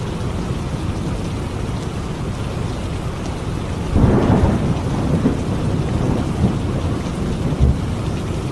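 Steady heavy rain with a sudden thunderclap about halfway through that rolls on as a low rumble.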